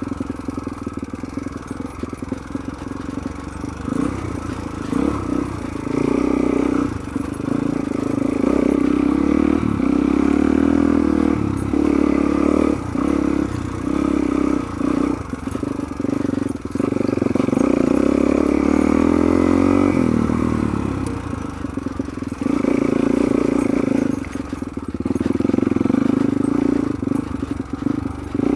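Suzuki DR-Z400's single-cylinder four-stroke engine pulling hard off-road, the revs rising and falling again and again as the throttle is opened and closed over rough, technical dirt trail.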